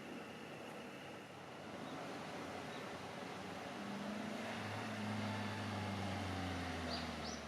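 A diesel railcar's engine drone, a low steady hum that comes in about four seconds in and grows louder as the railcar approaches. There are two short high chirps near the end.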